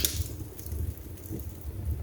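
Wood fire burning in a fireplace, with a sharp crackle right at the start and a few fainter pops over a low, steady rumble of the flames.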